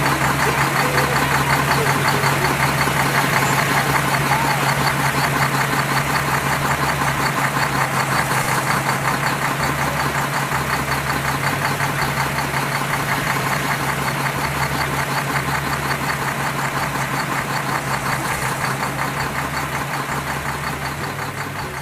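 Vehicle engine running at a steady speed with a fast, even knocking beat, getting slowly a little quieter.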